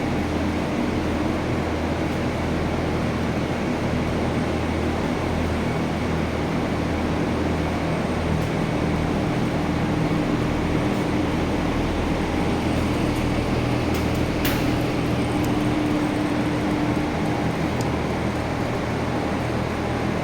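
Belt-driven industrial exhaust fan running steadily: a constant loud rush of air with a low hum. A single sharp click about two-thirds of the way through.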